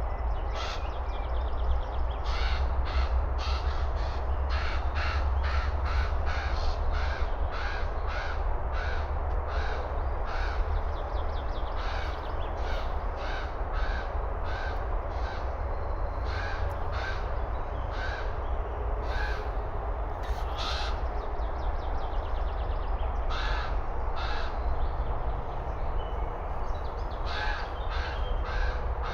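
Common ravens calling: many short caws in rapid series, a few per second, pausing briefly now and then, as several birds squabble. A steady low rumble underlies it.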